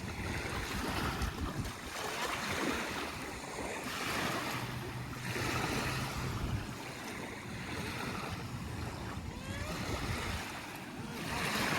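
Small waves washing onto the shore, with wind rumbling on the microphone.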